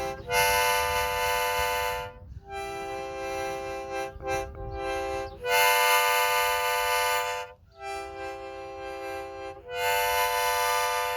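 Harmonica played in long held chords, switching back and forth between two chords about every two seconds with brief breaks between them.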